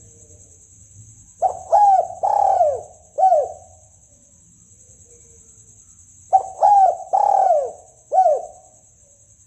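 Spotted dove cooing: two phrases of four falling coos each, the third coo of each phrase drawn out longest.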